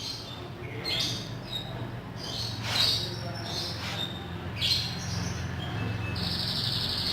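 Birds chirping in short high calls, with a trilling call near the end, over a low steady hum.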